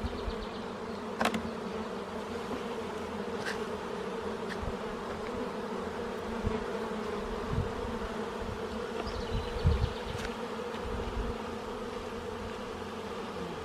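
A colony of honey bees around an open hive buzzing in a steady hum. A few sharp clicks and some low bumps sound over it.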